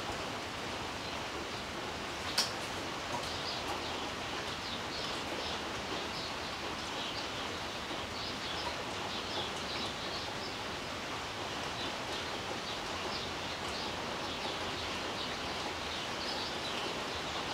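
Heavy rain falling steadily on leaves and a wooden birdhouse, with birds chirping over it again and again, and one sharp click about two seconds in.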